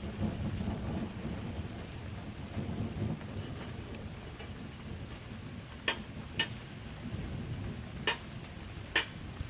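Steady rain falling, with a low rumble underneath throughout. Four sharp drip taps sound in the last few seconds.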